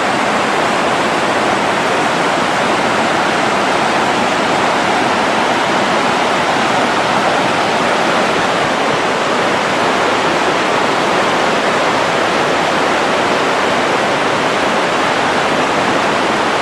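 Buttermilk Falls, a waterfall, rushing steadily over rocks: a loud, even roar of falling water.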